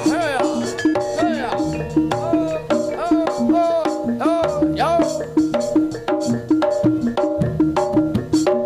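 Live jaranan senterewe music: an East Javanese percussion ensemble playing a fast, repeating pitched pattern over steady drum beats, with a melody line that bends and glides in pitch above it.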